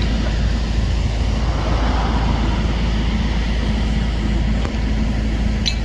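Steady low rumble of idling diesel truck engines, with a brief high squeak near the end.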